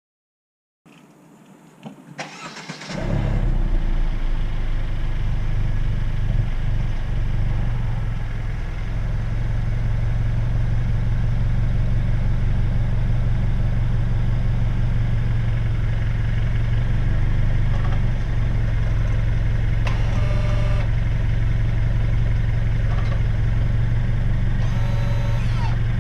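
Mercedes-Benz W205 C200 engine started from cold: it cranks briefly, catches about three seconds in with a raised cold-start idle, then settles by about nine seconds into a steady idle. Two short higher-pitched sounds come near the end.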